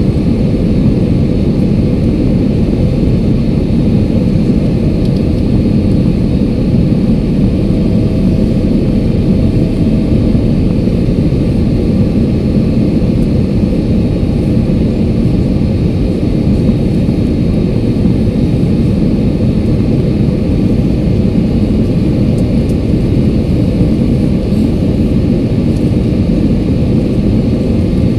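Steady low rumble of a jet airliner's cabin in flight: engine and airflow noise, constant throughout.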